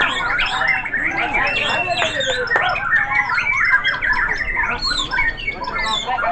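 Several white-rumped shamas singing at once. The overlapping song is a dense, unbroken tangle of quick whistles, trills and harsh chattering notes.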